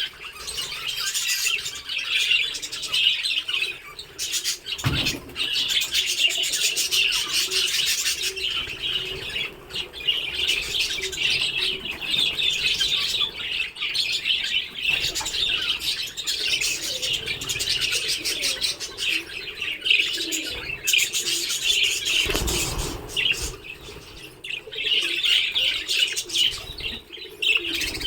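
A colony of budgerigars chattering and warbling together in a dense, continuous twitter, with a brief low rustle about five seconds in and another near the end.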